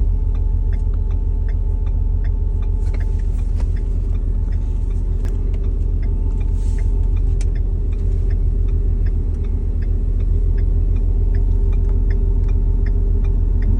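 Ford 6.7 L Power Stroke V8 turbodiesel idling at a stop, a steady rumble with a faint high whine over it. The owner says the whine builds the longer the truck sits at a stop and goes away when the engine is revved. A light, even ticking runs along with it.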